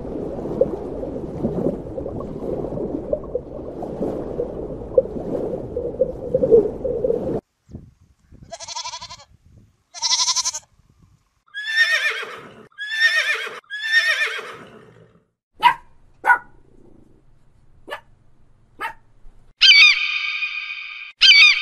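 A montage of animal sounds. First comes about seven seconds of rough, steady noise. Then several bleating calls of goats follow, the last three falling in pitch, then a few sharp clicks, and near the end a loud honking call.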